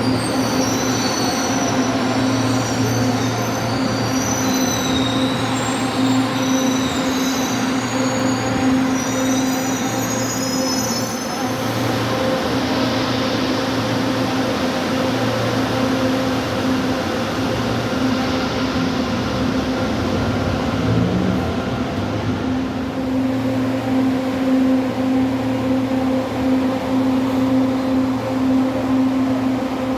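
Manila LRT Line 2 electric train running, with a steady low hum throughout. A high-pitched, wavering wheel squeal lasts about the first eleven seconds, then stops. A short rising whine comes about twenty seconds in.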